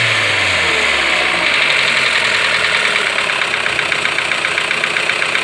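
Fiat/Jeep 1.3 turbo T270 four-cylinder engine dropping back from a light throttle blip to idle in the first second or so, then idling with a fast, light tec-tec ticking. The ticking is characteristic of this engine and not a fault.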